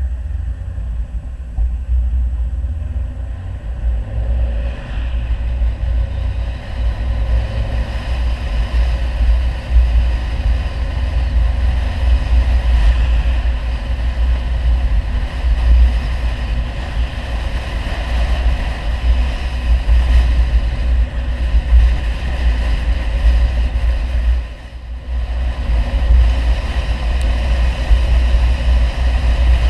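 Audi 100 2.3 quattro's five-cylinder engine running through its aftermarket CAC exhaust while the car is driven, with a heavy low rumble throughout. The sound drops off briefly about 25 seconds in, then picks up again.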